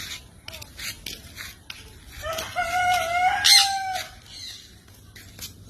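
A rooster crowing once, a single drawn-out call that rises and then holds before stopping, about two seconds in.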